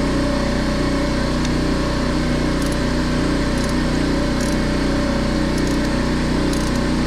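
An engine running steadily at a constant speed, with an even drone and no change in pitch or level.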